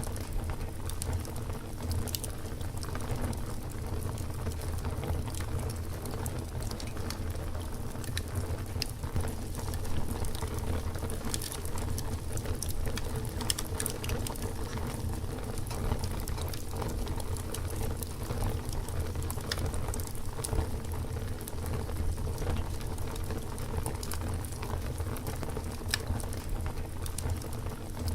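Campfire burning, with frequent irregular crackles and sharp pops over a steady low rumble of the flames.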